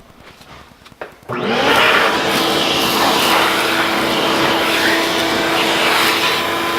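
Electric drill starting up about a second in, its motor whining up to speed and then running steadily under load, as when drilling the hole for the vise's back bolt.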